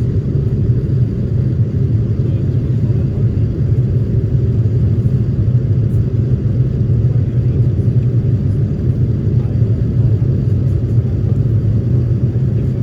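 Airliner cabin noise: a steady, loud, low rumble of jet engines and airflow, with no change through the stretch.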